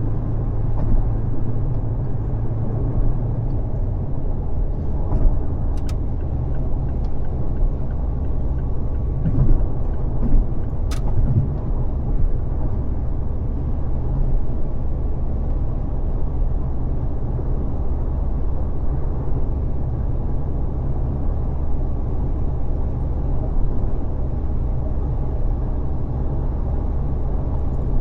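Car driving at freeway speed: a steady low rumble of tyre and engine noise, with a few faint brief clicks.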